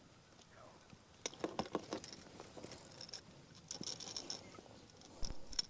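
Scattered light clicks, taps and scratches in a few short clusters: the landed bass and the treble-hooked topwater lure being handled in the kayak.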